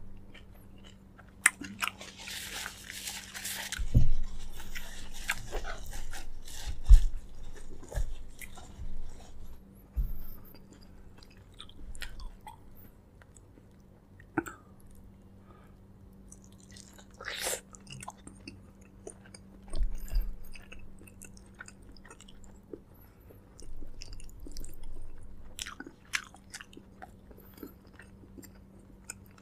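Close-miked chewing and biting of braised pork leg, with wet mouth clicks and an occasional crunch.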